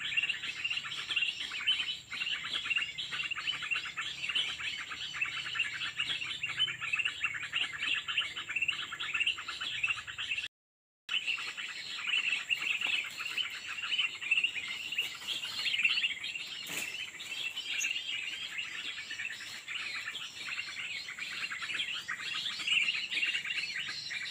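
Small birds chirping in a dense, rapid, continuous chatter, with one brief dropout to silence about ten seconds in.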